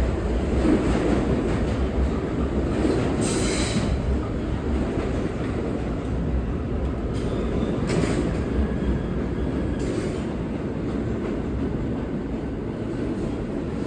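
New York City subway train running along the station platform: a steady heavy rumble, with brief high-pitched wheel screeches about three seconds in and again around eight and ten seconds, growing slowly quieter toward the end.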